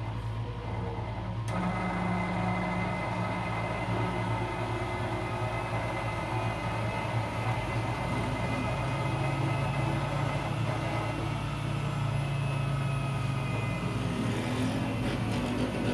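Miele W 759 washing machine running, a steady motor hum with noise over it that steps up in loudness about a second and a half in, its low tone shifting slightly higher around the middle.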